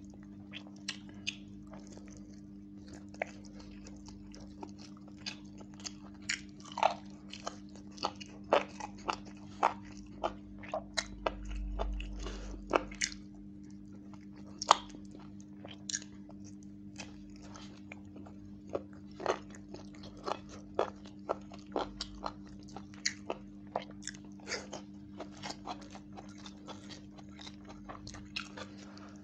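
Close-miked chewing and lip-smacking of a man eating chicken roast and basmati rice by hand: a rapid run of short wet clicks and smacks. A steady low hum sits underneath.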